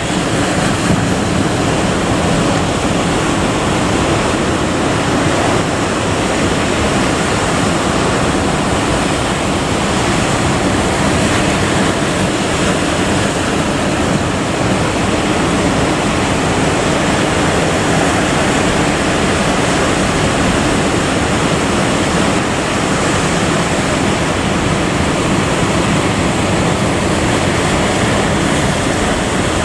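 Steady, loud rush of wind and sea surf, with wind buffeting the microphone.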